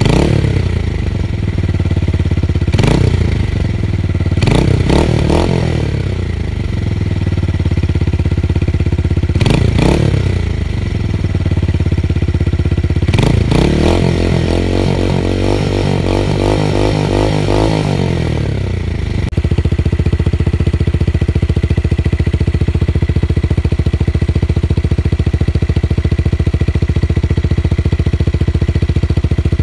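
Tuned motorcycle engine with an aftermarket exhaust, deep and bassy, idling and revved in short throttle blips about five times. About two thirds of the way through, the sound switches abruptly to a steady, even idle.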